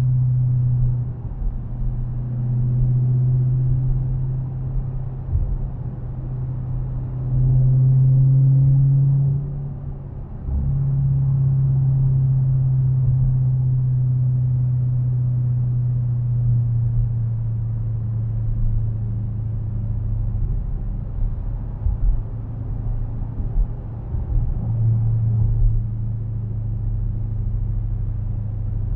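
Dodge Challenger's V8 droning steadily at highway cruise, heard from inside the cabin over low road rumble. It swells louder around eight seconds in, drops away for a moment about ten seconds in, then settles back to a steady drone that dips a little in pitch and rises again near the end.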